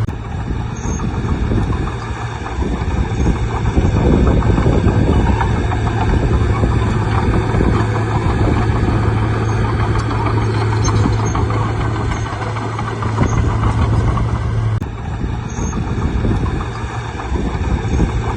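Bulldozer's diesel engine running continuously with a steady low hum, its loudness rising and falling as the machine works, with a sharp click about fifteen seconds in.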